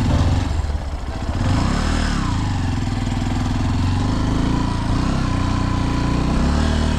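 Honda XR150L's single-cylinder engine running; its pitch rises and falls once about two seconds in, then holds a steady note.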